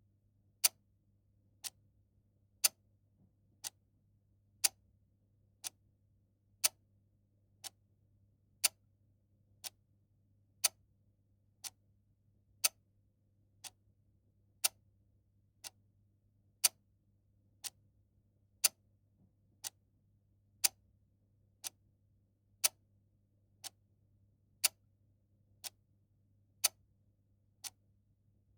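Clock ticking steadily about once a second, the ticks alternating louder and softer in a tick-tock pattern, over a faint steady low hum.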